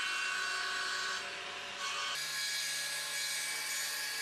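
CNC wood lathe running and cutting wood: a steady machine whir with a hiss of cutting. The sound changes abruptly about two seconds in, to a lower hum with less hiss.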